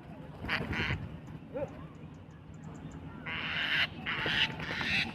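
Birds calling: mynas giving harsh, rasping calls, briefly about half a second in and then repeatedly from about three seconds in, over faint low dove coos.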